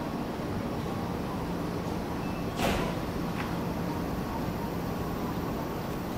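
E231 series 900 commuter train standing at the platform, its equipment humming steadily, with a short burst of air hiss about two and a half seconds in and a fainter one just after.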